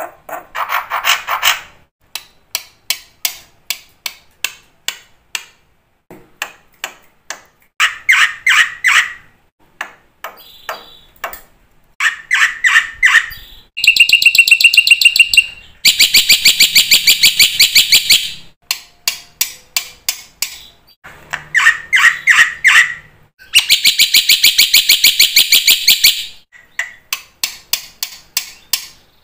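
Black-winged myna (jalak putih) singing vigorously: rapid clicking rattles and short trills, broken by two long, harsh, chattering calls, one in the middle and one about two-thirds through.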